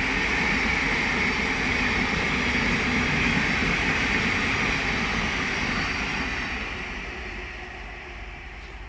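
Thameslink Class 700 electric multiple unit passing on the line: a steady rush of wheels on rail and air noise, fading away from about six seconds in.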